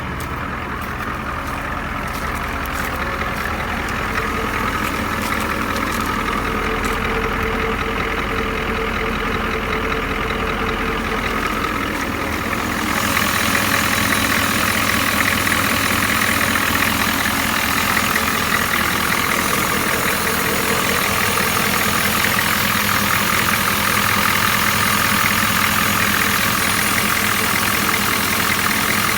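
1992 Ford 7.3 IDI V8 diesel, fitted with a Hypermax turbo and a 3 1/2-inch exhaust, idling steadily. About thirteen seconds in, the sound gets louder and brighter.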